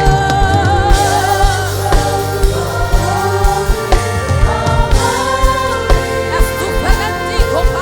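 Live gospel worship music: a lead melody with vibrato over a full band, with a steady drum beat pulsing throughout.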